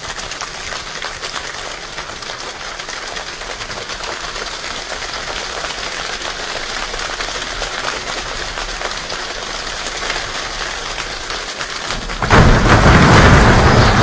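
Rain imitated by hands: a dense pattering of claps and slaps that slowly swells, then breaks into a sudden, much louder burst about twelve seconds in.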